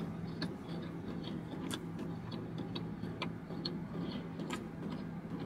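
A person chewing a mouthful of fried chicken with the mouth closed: soft, irregular mouth clicks and smacks, over a steady low hum.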